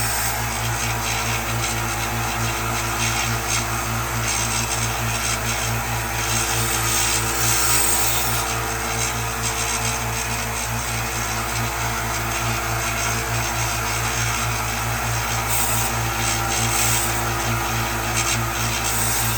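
Electric grinder running steadily, its abrasive rubbing continuously against the work.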